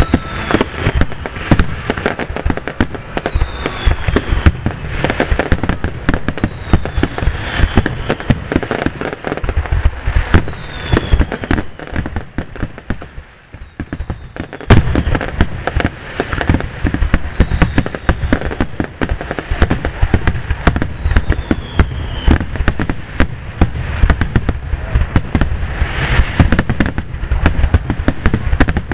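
Fireworks display finale: a dense, continuous barrage of aerial shell bursts and crackle, with falling whistles every second or two. A short lull about halfway through ends with one very loud bang.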